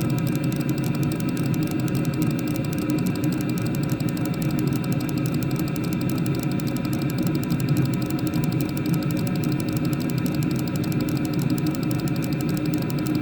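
Chinese diesel air heater running flat out: a steady rush from the burner and blower fan, with several steady humming tones on top.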